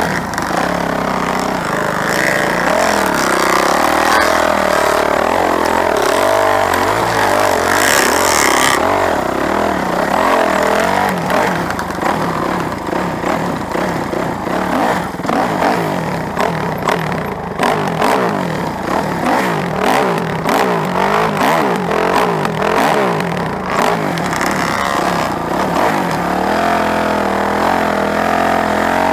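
Motor vehicle engines running and revving, their pitch rising and falling throughout, with a rough rattling stretch through the middle.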